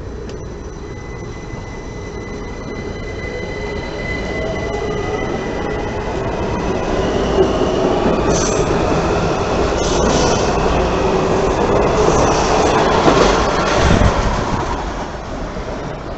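Washington Metro CAF 5000-series railcars accelerating out of a station. The propulsion whine climbs steadily in pitch over the rumble of wheels on rail, and the sound grows to its loudest a little past halfway as the cars go by, then fades.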